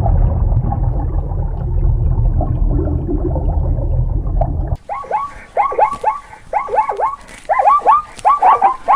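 Animal sounds: a loud low rumbling growl for nearly the first five seconds, which stops abruptly, then a quick run of short, high yelps, several a second, each rising and falling in pitch.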